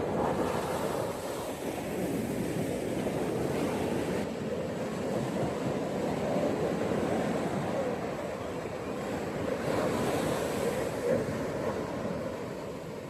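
Ocean waves breaking and washing onto a beach, the surf rising and falling in slow swells every few seconds.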